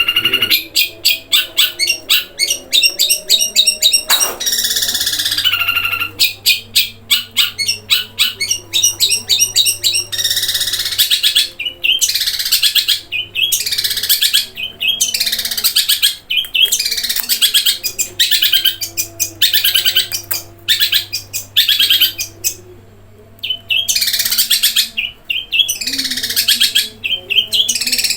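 Long-tailed shrike singing a fast, varied song: rapid rattling trills of clipped notes alternating with harsh, downward-sliding calls, with imitated house sparrow chirps mixed in.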